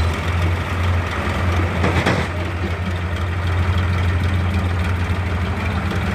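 Tractor diesel engine idling with a steady low hum, and a brief noisy burst about two seconds in.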